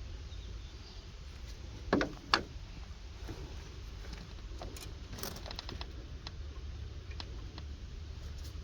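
Two sharp knocks about two seconds in, then scattered light clicks and clinks of metal tools and engine parts being handled, over a low steady hum.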